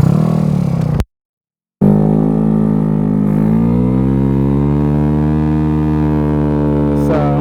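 DF50SST scooter's engine running while riding. The sound cuts out completely for about a second, then the engine note rises steadily as the scooter accelerates and holds at the higher pitch.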